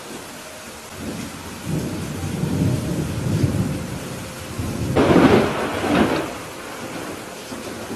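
Thunderstorm: steady rain with thunder rolling in. A low rumble builds over the first few seconds, and a sharper, louder clap comes about five seconds in, with a second one a second later, before both die away into the rain.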